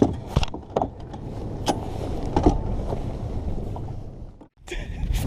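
Low rumble of a fishing boat on the water, with a handful of sharp knocks in the first half.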